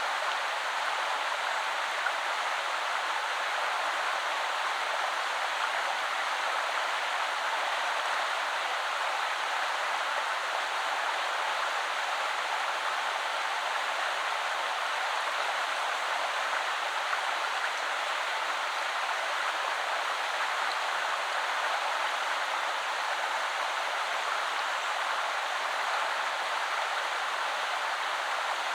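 Shallow woodland river flowing in a steady, unbroken rush of water, with no separate splashes or changes.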